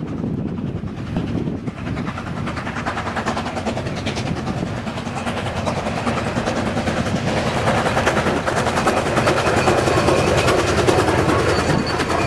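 Southern Pacific 4449, a streamlined 4-8-4 steam locomotive, and its passenger train approach and pass, growing steadily louder. The wheels clatter densely on the rails as the engine and then the cars go by.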